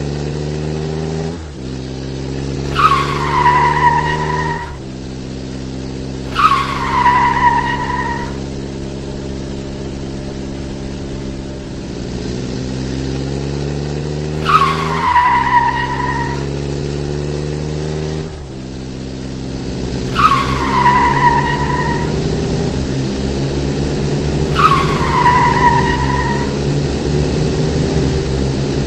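Car engine sound effect running at a steady pitch that shifts up and down in steps, cut by five tire screeches, each a short falling squeal about a second long.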